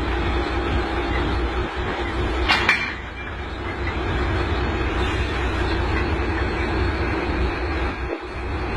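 Train locomotive running with a steady low rumble and hum, with one brief sharp burst of noise about two and a half seconds in.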